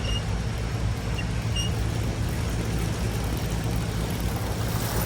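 Dirt bike engine running steadily at low, even revs, with no revving up.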